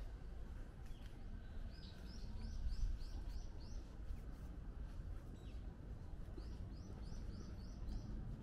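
A small bird calling in two quick runs of repeated high chirps, five or six notes each, over a steady low outdoor rumble.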